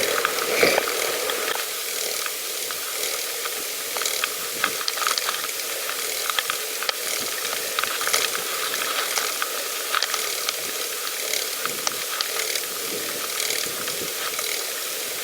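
Bicycle rear freewheel ticking as the bike coasts, a run of small clicks over a steady hiss of tyres and wind.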